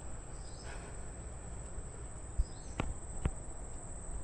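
Insects droning steadily at a high pitch, with a few short chirps over them. Two sharp clicks come about three seconds in, over a low rumble.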